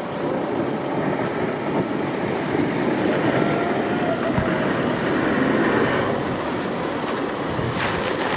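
Steady rushing noise of surf and churning water around a boat, with a short sharp burst near the end.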